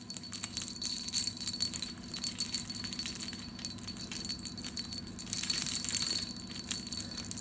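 Small metal bells jingling and rattling in quick, irregular shakes.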